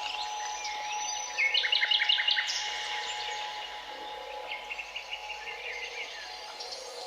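Birds chirping and calling, with a loud run of quick repeated notes about a second and a half in, over a faint steady hum.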